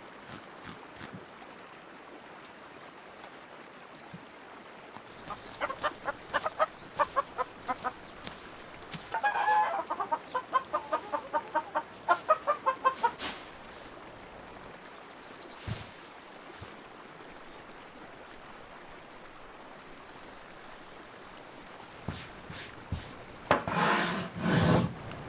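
Chickens clucking: runs of short, rapidly repeated calls about a third of the way in, and another brief bout near the end.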